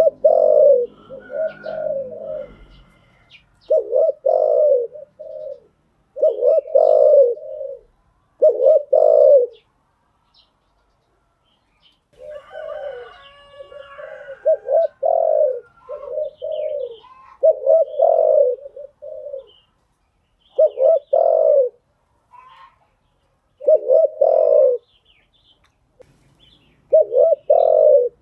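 Spotted dove cooing: loud, repeated phrases of a few low coos each, coming every couple of seconds with a pause about ten seconds in. Fainter, higher chirps sound briefly just after the pause.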